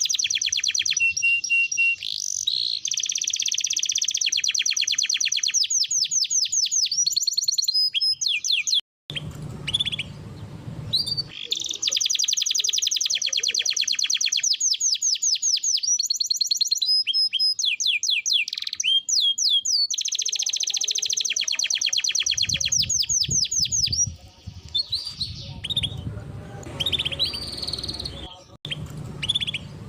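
Domestic canary singing a long song of fast rolling trills and repeated high chirps, breaking off briefly twice. A low background rumble sits under the song in places.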